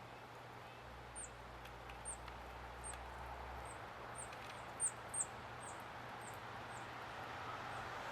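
A small songbird at the feeders giving a series of very high, thin call notes, each a quick downward slur, about two a second, loudest near the middle.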